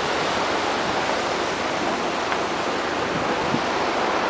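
Floodwater rushing in a steady, even roar, with no rise or fall in level.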